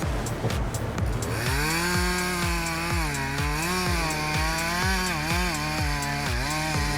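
Chainsaw running, starting about a second and a half in, its pitch dipping and rising as it cuts, over background music with a steady beat.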